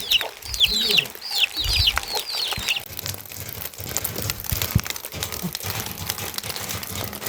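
Chickens calling, a run of quick, high, falling peeps for the first two to three seconds. After that a steady hiss with scattered clicks is all that is heard.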